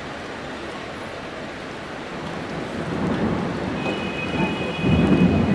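Heavy rain falling steadily, with a low rumble that builds over the last few seconds and a brief high, thin tone near the end.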